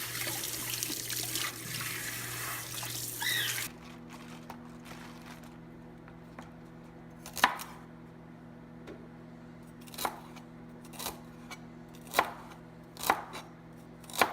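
Tap water running into a sink, shut off abruptly about four seconds in. Then single knife chops through rainbow chard onto a cutting board, about one a second, over a faint steady hum.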